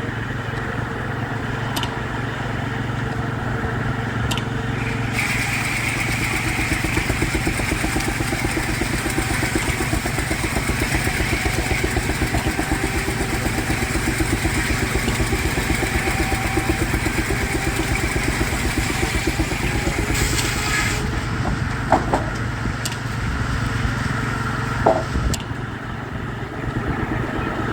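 Steam-powered Frick sawmill running, its 60-inch circular blade cutting through a log from about five seconds in until about 21 seconds, over the steady fast beat of the driving Baker steam engine. Two sharp knocks follow near the end.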